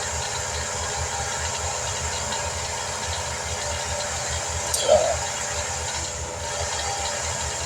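An engine running steadily at idle, with a constant hiss over it. About five seconds in there is one short, louder sliding squeak.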